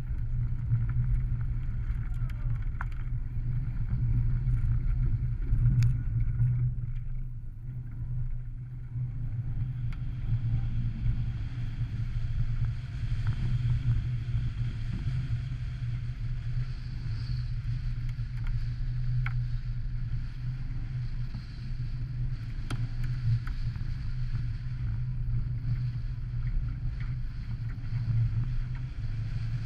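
Car engine driven hard around a dirt rallycross course, heard onboard as a steady low drone; it eases off briefly about seven or eight seconds in, then picks up again.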